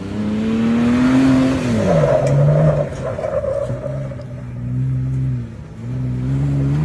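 Car engine pulling under acceleration: its pitch climbs, drops sharply about two seconds in as a gear changes, then climbs again toward the end.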